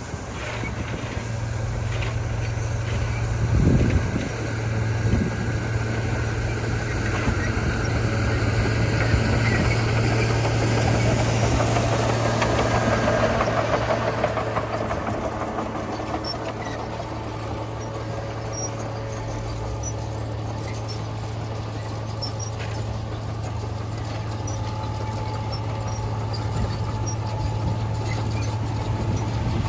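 Heavy diesel engine of earthmoving machinery running steadily, swelling louder through the middle and easing off again. A few knocks come in the first few seconds.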